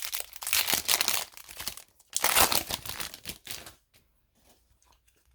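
Foil trading-card pack wrapper being crinkled and torn open by hand, in two crackling stretches, going quiet about four seconds in.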